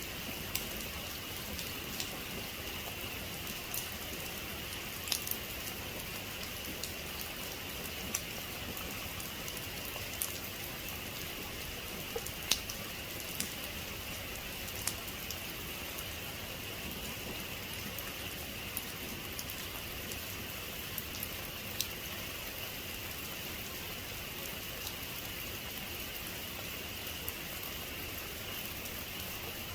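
Steady heavy rain falling, with single drops striking close by in sharp ticks now and then.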